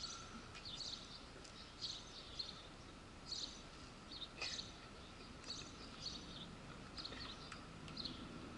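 Faint birdsong: short high chirps repeating about twice a second, over a quiet background with a faint steady hum.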